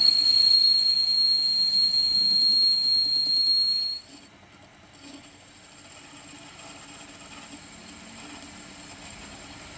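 A steady high-pitched squeal that cuts off suddenly about four seconds in, leaving a faint low hum.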